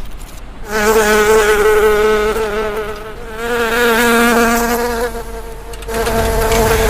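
Insect-like buzzing with a slightly wavering pitch, starting about a second in.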